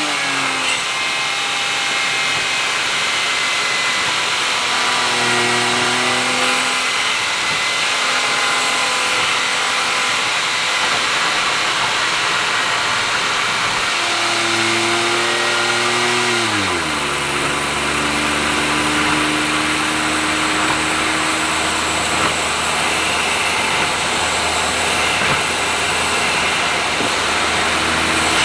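Honda S660's turbocharged three-cylinder engine through an HKS aftermarket exhaust, cruising at expressway speed over steady tyre and road noise. The engine note climbs a little past halfway, drops sharply, then settles into a steady lower drone.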